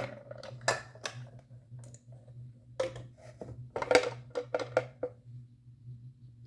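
A run of irregular sharp clicks and knocks, a few early and a denser cluster near the middle, over a steady low hum.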